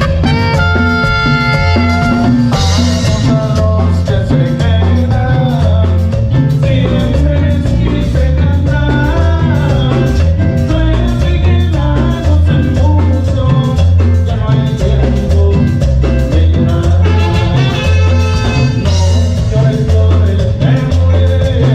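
Live cumbia band playing, with a steady pulsing bass beat under keyboard or horn lines, recorded through a camera microphone.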